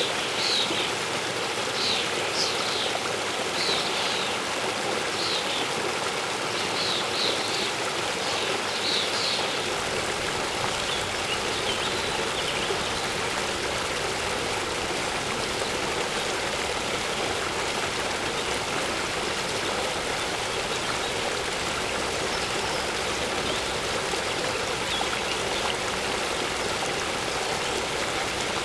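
Waterfall's steady rush of falling water. A bird chirps short high notes about once a second over the first ten seconds, then only now and then, faintly.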